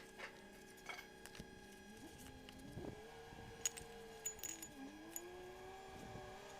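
Faint, scattered metallic clinks and taps, as of tools and metal parts being handled during a repair, over a low steady hum that sags in pitch briefly near the middle.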